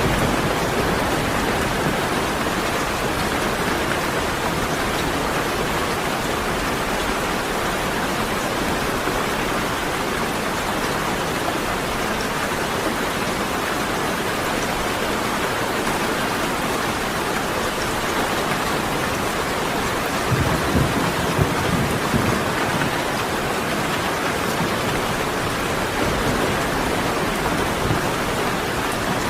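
Heavy rain falling steadily, an even dense hiss, with a brief low rumble about two-thirds of the way through.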